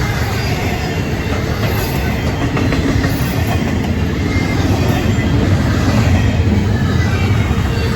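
Norfolk Southern train rolling past, a loud steady rumble of wheels on rail.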